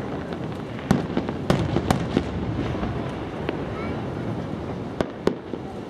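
Fireworks exploding overhead: a run of sharp bangs and crackling reports, several close together in the first couple of seconds and a pair about five seconds in, over a steady rumble of earlier bursts.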